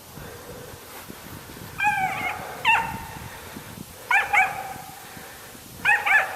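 Squirrel dog barking treed: high-pitched yipping barks in three short bursts, about two, four and six seconds in, each bark sliding in pitch. The barking marks a squirrel up the tree.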